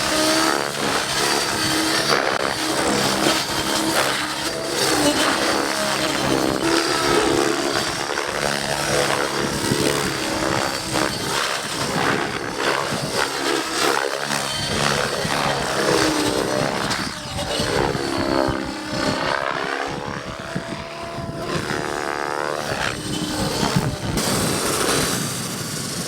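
Radio-controlled model helicopter flying aerobatics, its rotor and motor whine rising and falling in pitch again and again as it swoops and flips, with pronounced sweeps in the second half.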